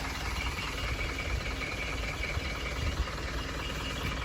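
Truck's diesel engine idling steadily, with a thin steady high whine alongside and one short knock about three seconds in.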